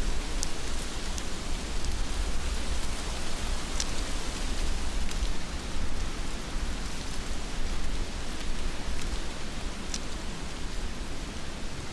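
Heavy rain falling steadily, an even hiss with a low rumble underneath. A few sharp ticks of single drops striking close by stand out, about half a second in, near one second, near four seconds and near ten seconds.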